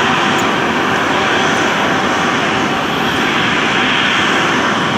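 Airbus A330-300's Rolls-Royce Trent 700 jet engines running, a loud steady rush that holds even throughout.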